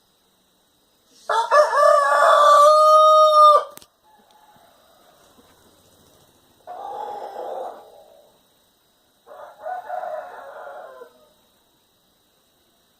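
A rooster crowing once, loud and long, ending on a held note. Two fainter, rougher calls follow a few seconds apart.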